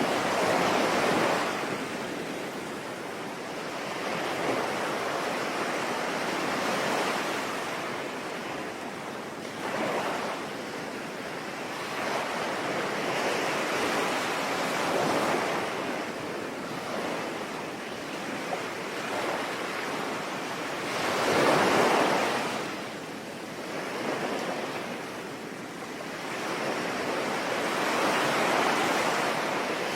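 Ocean waves washing onto the shore, the surge rising and falling every few seconds with a larger swell about two-thirds of the way through, over a steady hiss of rain.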